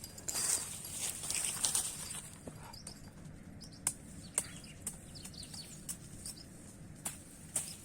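Outdoor ambience in dry scrub. Scattered sharp clicks and crackles sound over a steady high-pitched insect buzz, and a few short bird chirps come in the middle.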